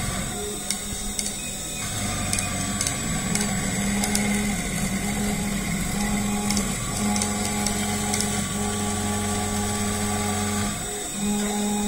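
DIY CNC milling machine running a cutting job: its motors whine in steady tones that shift or briefly drop out about two, seven and eleven seconds in, as the moves change.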